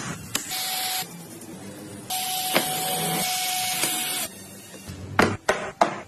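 A small electric hand tool runs in two short bursts, the second about two seconds long, with a steady whine under the hiss. Near the end come a few sharp knocks.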